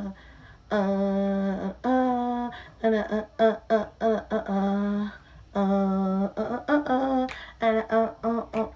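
A woman humming a tune in a repeating phrase: runs of short notes, each run ending on a long held note, with no instruments behind it.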